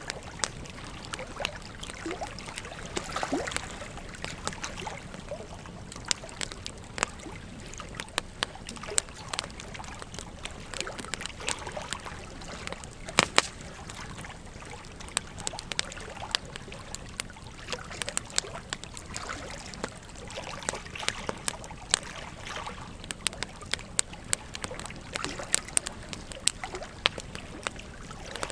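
Campfire wood crackling, with sharp pops scattered irregularly, the loudest about thirteen seconds in, over a steady rush of river water.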